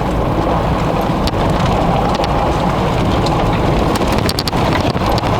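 Steady road and wind noise inside a moving vehicle, with rain hitting the body and windshield as scattered sharp ticks, a quick cluster of them about four seconds in.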